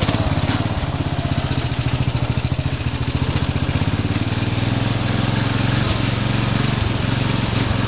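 Murray riding mower's 14.5 hp Briggs & Stratton overhead-valve engine running as the mower is driven, a fast, even pulsing exhaust beat; the sound steadies about four seconds in.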